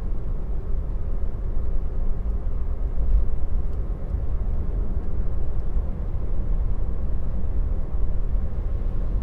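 Steady low road and tyre rumble of a Tesla electric car driving, heard from inside the cabin.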